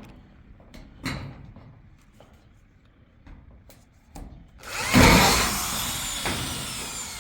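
A few scattered light knocks, then about four and a half seconds in a power tool starts up loudly and runs for a couple of seconds, its whine falling in pitch.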